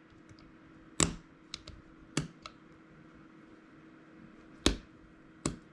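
Six or so sharp clicks at uneven intervals, two of them louder, from the e-bike's handlebar control buttons being pressed, over a faint steady electrical hum.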